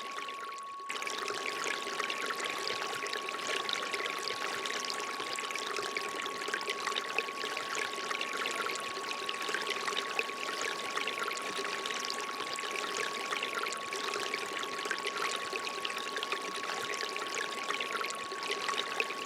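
Water pouring and trickling steadily from a bamboo fountain spout, with a thin, steady pure tone held underneath it throughout. The water briefly drops out in the first second, but the tone carries on.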